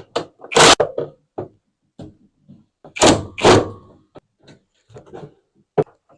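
A few loud clunks and a scatter of smaller clicks: tools and metal parts being handled against a front-loading washing machine's drum while the end-cap screws are being removed.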